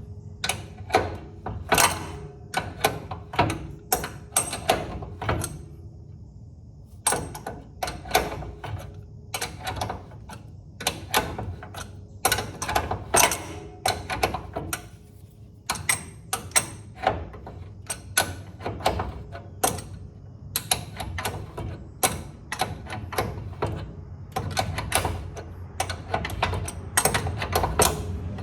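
Hand tools working on a truck's front suspension: rapid, irregular sharp clicks in runs of a few seconds, broken by short pauses, over a steady low hum.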